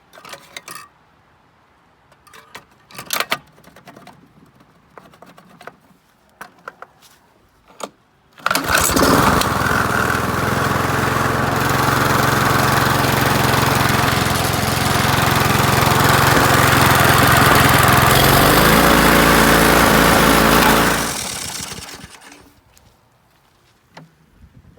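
A few scattered clicks and knocks, then a lawn mower engine starts abruptly about a third of the way in and runs loud and steady for about twelve seconds, its pitch shifting slightly before it is shut off and winds down.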